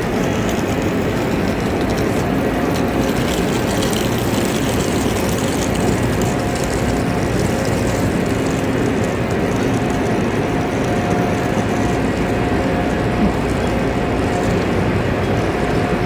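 Steady mechanical hum and rushing rumble of a high-speed train standing at a station platform, with a faint steady whine held throughout.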